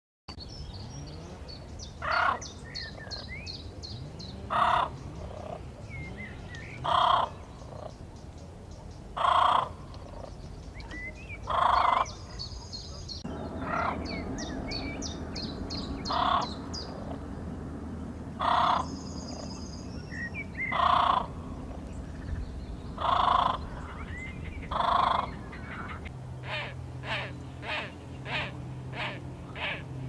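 Birds calling: a loud call repeated about every two and a half seconds, with high, fast chirping trills between. Over the last few seconds, a quicker series of short calls comes about three times a second.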